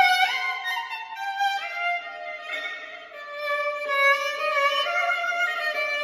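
Solo violin playing a slow elegy melody, one held note after another, easing off about three seconds in before swelling again.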